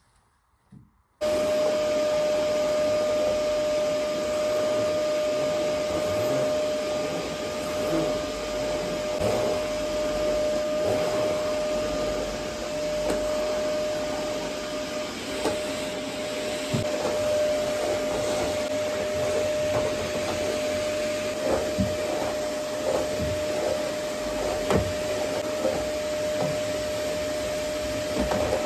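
Vacuum cleaner switched on about a second in, then running steadily with a constant whine over its rushing noise, with small knocks and bumps as it is moved about.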